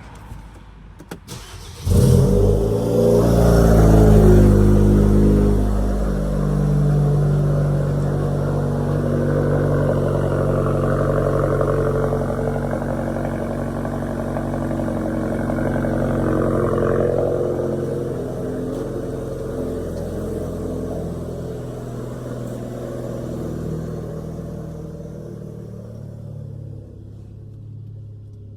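A big-turbo Genesis G70 2.0T's turbocharged four-cylinder engine cold-starting. After a few clicks it catches about two seconds in and flares up. A few seconds later it settles into a high cold idle that slowly drops lower.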